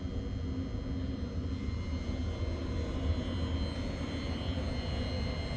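Steady low rumble of a vehicle in motion, heard from inside, with a faint constant high whine over it.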